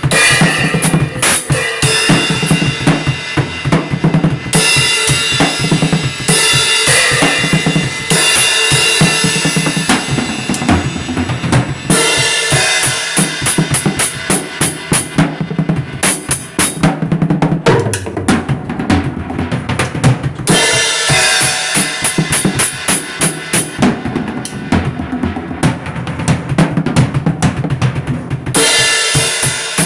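Music driven by a drum kit, with bass drum, snare and cymbals keeping a steady beat over sustained pitched instruments.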